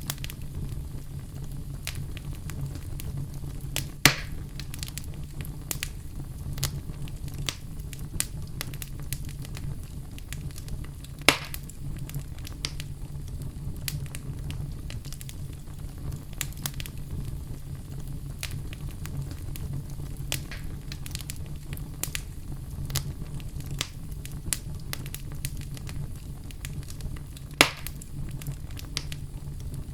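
Wood fire crackling in a fireplace: frequent small crackles over a steady low rumble, with three louder sharp pops, about four seconds in, about eleven seconds in, and near the end.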